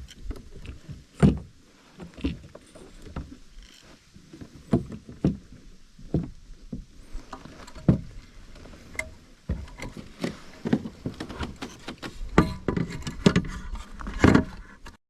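Irregular knocks and bumps against a plastic kayak hull, coming thicker in the last few seconds and cutting off abruptly near the end.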